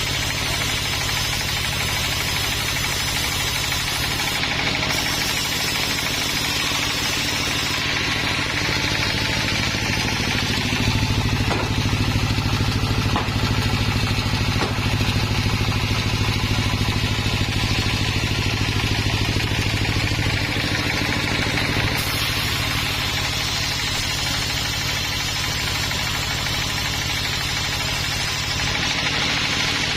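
Sawmill engine running steadily, a little louder for about ten seconds in the middle.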